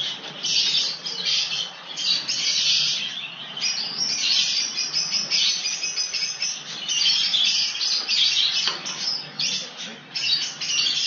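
Birds chirping in a dense, continuous, high-pitched chatter.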